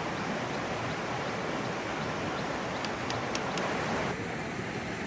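Steady rush of flowing water, with a few sharp clicks about three seconds in; the rush drops a little about four seconds in.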